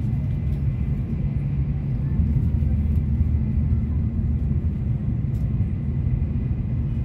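Steady low rumble of a Shinkansen bullet train running at speed, heard inside the passenger car, with a few faint ticks over it.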